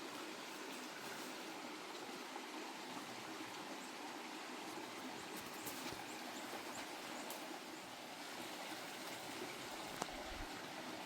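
Steady, even rushing of running water, with a few faint ticks and one sharp click about ten seconds in.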